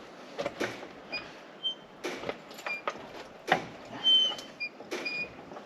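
Hand work on mower parts being refitted: irregular clicks and knocks, several with a brief high ring.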